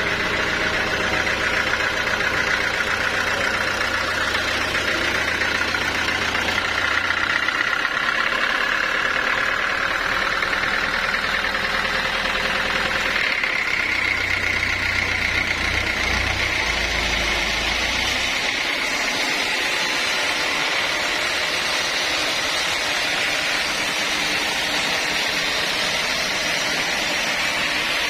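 Sawmill machinery running steadily with a mechanical hum. A low engine drone fades out about a quarter of the way in, returns briefly after the middle, then drops away again.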